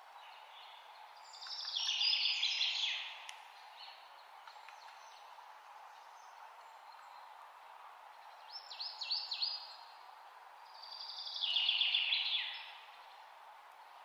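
A songbird sings twice, each song a couple of seconds of rapid repeated notes. A short run of sharp chirps comes between the two songs, all over a steady background hiss.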